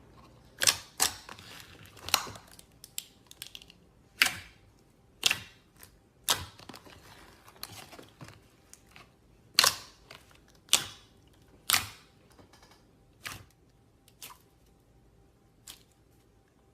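Slime being pressed and stretched by hand, making sharp popping clicks and snaps at irregular intervals, about a dozen over the stretch.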